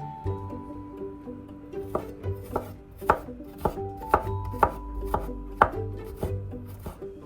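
Knife chopping on a cutting board, sharp knocks about twice a second, with soft melodic background music.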